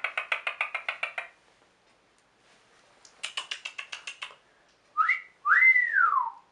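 Red-crowned (Mexican red-headed) Amazon parrot making two quick runs of rapid pulsed chatter, then a two-note wolf whistle: a short rising note followed by a longer note that rises and falls.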